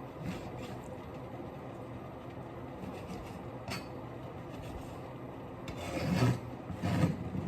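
Two short scraping noises near the end, the second a little after the first, over a steady low hum.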